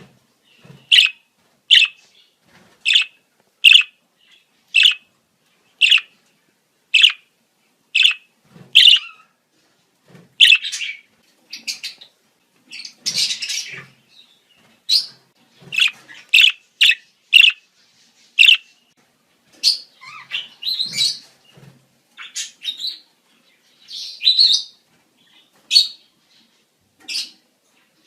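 Budgerigars calling in breeding-season chatter: a run of sharp chirps about once a second, then a busier, irregular mix of chirps and warbling from about ten seconds in.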